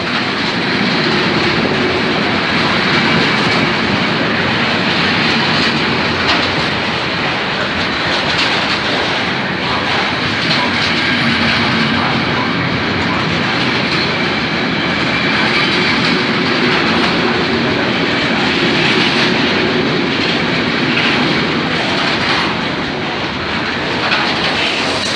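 A freight train's wagons rolling steadily past close by: a continuous loud rumble with the clatter of wheels over the rails.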